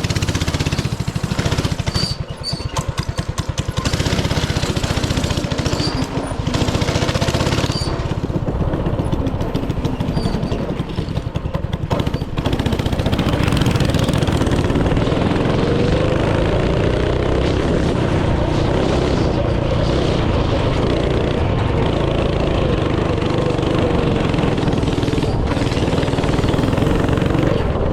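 Small go-kart or mini bike engine running close by, its firing coming through as a fast, even rattle while its speed rises and falls.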